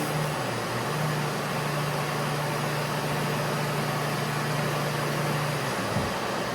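SurfPrep orbital sander running on a cabinet door, with its hose hooked up to a Festool dust-extractor vacuum that also runs, giving a steady hum and hiss. The hum dips briefly about six seconds in.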